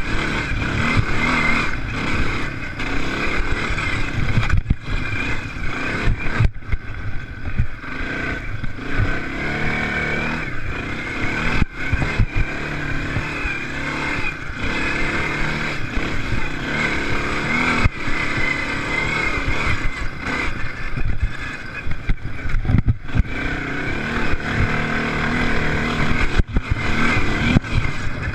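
Off-road racing engines running hard, their revs rising and falling continuously, with buffeting rumble in the low end.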